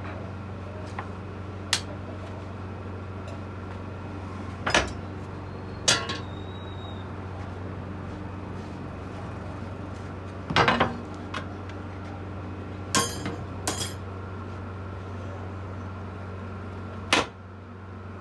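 Scattered metal clinks and knocks, about eight spread irregularly, as tools and metal pieces are handled around a casting mould, over a steady low hum.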